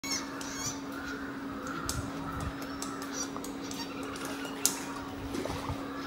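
Birds calling in a tree canopy, with scattered short ticks and one sharper click about three-quarters of the way through, over a steady low hum.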